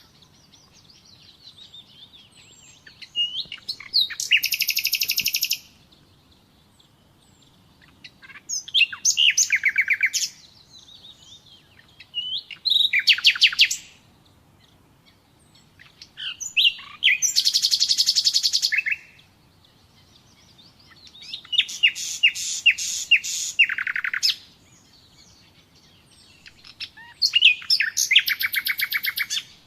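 Common nightingale singing: six separate song phrases, each a fast, rapid-fire run of repeated notes lasting a second or two, with pauses of a few seconds between them.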